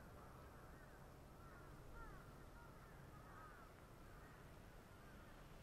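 Near silence with faint, distant bird calls: a string of short chirps that rise and fall, bunched in the middle, over a faint low background rumble.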